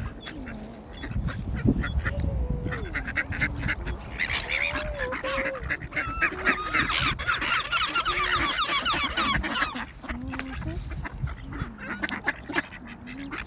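A flock of ducks and gulls calling as they crowd in for bread: quacks and honks throughout, with a thick chatter of higher, quicker calls from about four to ten seconds in.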